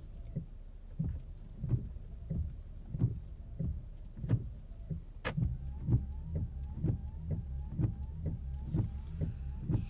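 Car windshield wipers sweeping back and forth on wet glass, knocking at each turn of the stroke about one and a half to two times a second. From about halfway on, each sweep also gives a short rising squeak of the rubber blades.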